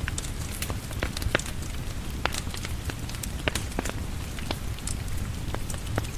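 Steady rain mixed with the crackle of a wood fire: many irregular sharp pops over a continuous hiss and a low rumble.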